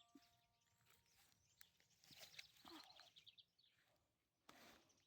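Near silence: faint outdoor ambience with distant birds chirping and a brief rustle near the end.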